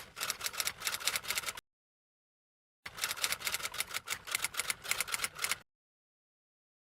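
Rapid typewriter-style key clicks in two runs: the first stops about a second and a half in, and the second runs from about three seconds to five and a half seconds in. The gaps between the runs are dead silent, as in an added typing sound effect.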